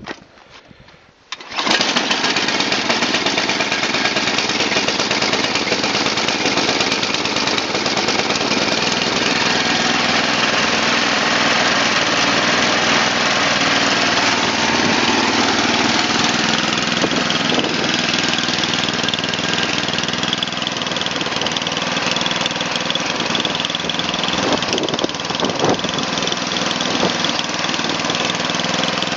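The 11 hp Tecumseh Snowking engine of a Murray Select snowblower, started cold at about freezing. It catches about a second and a half in and then runs steadily.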